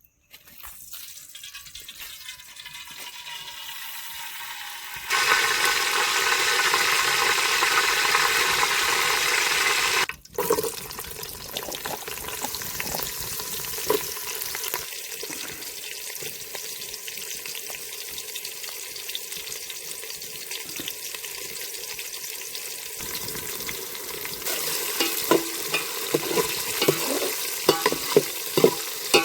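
Food sizzling in hot oil in a cooking pan. The sizzle rises to a loud stretch for about five seconds and then drops to a steadier, quieter frying. Near the end a spoon scrapes and knocks against the pan as the curry is stirred.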